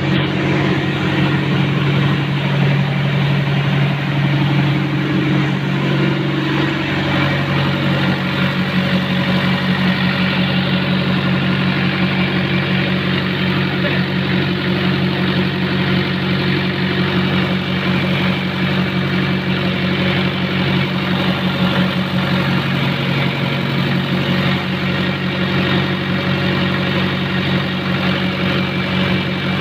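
Diesel generator set with a Ricardo engine running steadily at constant speed, a low, even engine drone.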